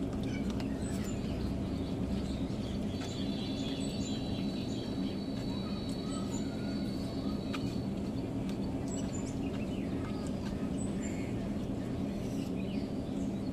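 Small birds chirping faintly, in short high calls, over a steady low hum, with scattered light clicks.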